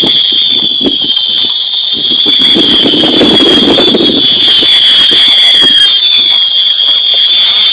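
Fireworks burning in a shopping trolley: a loud, unbroken high-pitched whistling screech with crackling and fizzing underneath. One whistle falls in pitch about five seconds in.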